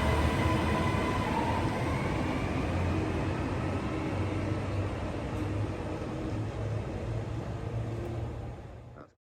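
TransPennine Express passenger train moving off from the platform: a steady low rumble with a whine that rises in pitch about a second and a half in, slowly fading as it accelerates away, then cutting off abruptly near the end.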